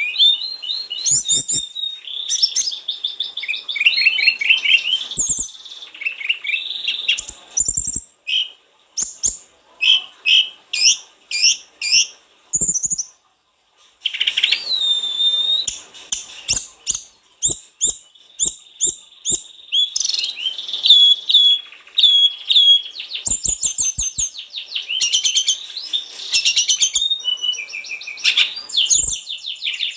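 Sulingan gunung (snowy-browed flycatcher) singing continuously in quick, varied high phrases of chirps and trills, with one short pause about thirteen seconds in.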